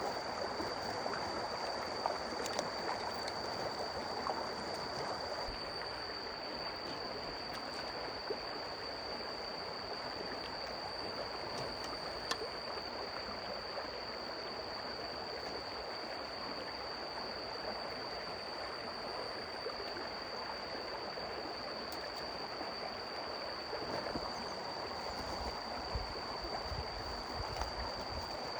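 Stream water flowing, a steady rushing with a thin, steady high tone above it and a few faint clicks. Low rumbling joins in near the end.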